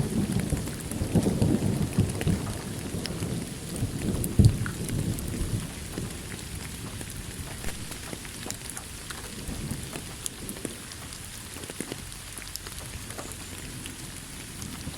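Steady rain falling in a thunderstorm, with thunder rumbling through the first few seconds and a sharper clap about four and a half seconds in; the thunder fades out by about six seconds in, leaving rain alone.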